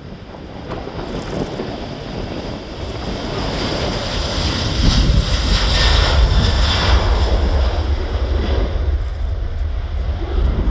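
Jet airliner's engines on takeoff, growing louder to a peak about halfway through with a loud hissing jet noise, then easing to a deep rumble that carries on.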